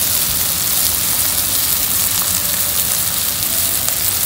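Freshwater prawns in a thick onion masala sizzling steadily in a pan on the heat, an even hiss with faint pops.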